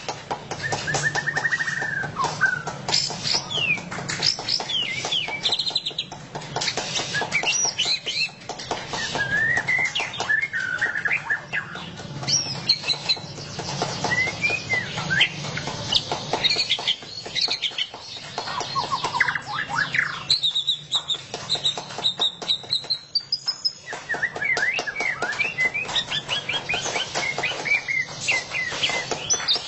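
White-rumped shama (murai batu) singing loud, fast 'ngeriwik' song: rapid chattering notes packed between quick whistled upslurs and downslurs, with no pause, and one longer rising whistle about three-quarters of the way through.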